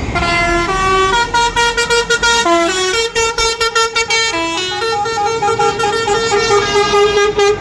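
Musical horn on a truck playing a tune: a run of quick notes stepping up and down in pitch, with rapid stuttered notes in the middle, for about seven and a half seconds.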